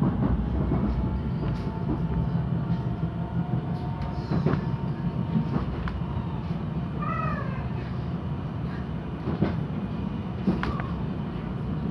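Stadler GTW railcar running, heard from its passenger compartment: a steady low rumble with a few sharp clicks from the wheels on the rails. About seven seconds in comes a short, high squeal that bends in pitch, with a fainter falling squeal a few seconds before it.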